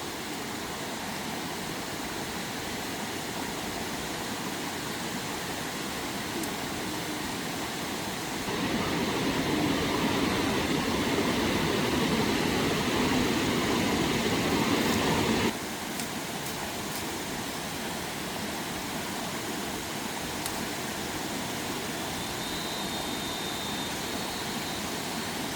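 Steady rushing of fast-flowing water. It grows louder about a third of the way in, then drops back abruptly a little past the middle.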